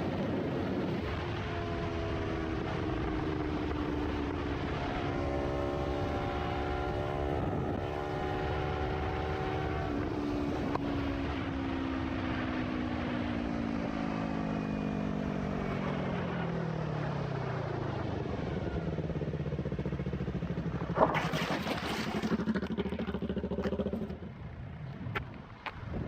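Motorcycle engine running under a steady rush of wind, its pitch falling steadily over several seconds as the bike slows. About 21 seconds in comes a short, loud noise burst, after which the sound grows quieter.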